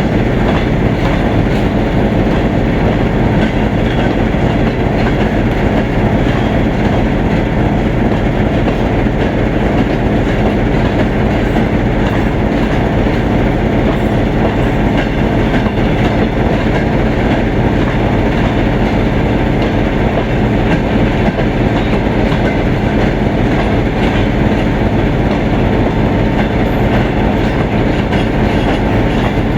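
Passenger train rolling into the station, its cars running past with a steady, unchanging rail noise.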